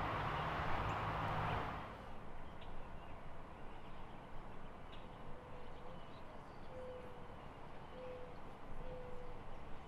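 Outdoor ambience in which a bird gives a series of four low hooting notes in the second half, the first rising slightly. It is preceded by about two seconds of louder noise with a low steady hum that stops abruptly.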